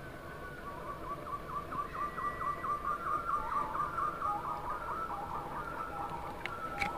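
A bird calling in a long, rapid series of short chirping notes, several a second, with a sharp click near the end.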